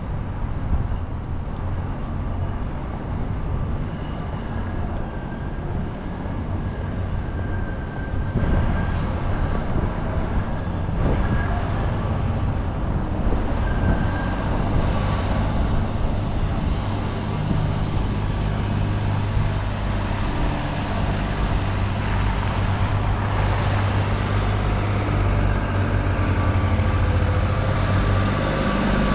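City street traffic: passing vehicles and a steady low engine hum, growing somewhat louder about halfway through.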